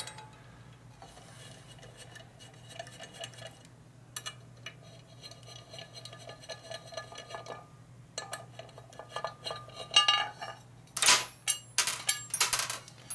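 Metal tools and parts clinking and rattling as they are handled and rummaged through, with a run of louder clanks over the last three seconds, over a steady low hum.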